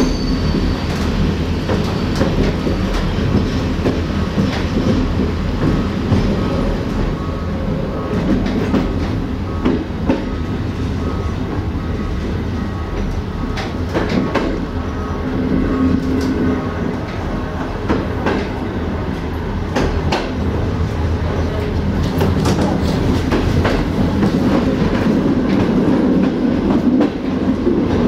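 Passenger train running along the line, heard from on board: a steady rumble of wheels on rail with scattered sharp clicks as the wheels pass over rail joints.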